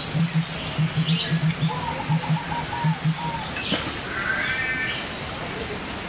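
Several birds calling: a wavering call about two seconds in and a harsher, buzzy call about four seconds in. Under them is a low pulsing about three times a second that stops about three seconds in.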